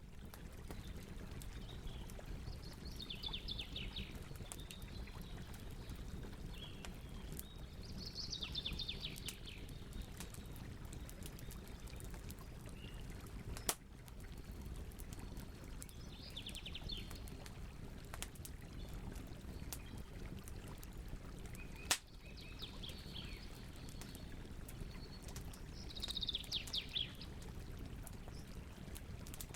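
Campfire crackling over a steady low rumble, with scattered small clicks and two sharper pops, one midway and one about three-quarters through. A songbird sings short, rapid trills every few seconds.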